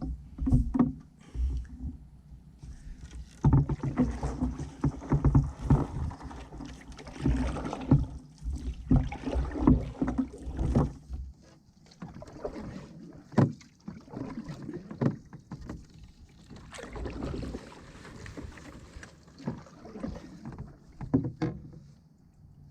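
Solo canoe being paddled with a wooden ash paddle: irregular strokes dipping and pulling through the water, with splashes and drips, and a few sharper knocks.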